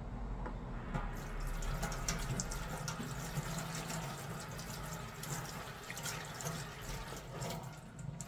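Water running from a tap into a sink and splashing, starting about a second in and easing off near the end.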